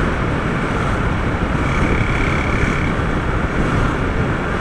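Steady road noise of a motorcycle ride in city traffic: engine, wind rush and passing traffic blended together. A faint high whine comes in for about a second in the middle.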